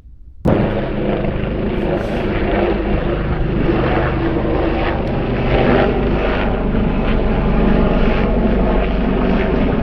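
Mountain rescue helicopter flying, a steady loud drone of rotor and engine that starts abruptly about half a second in.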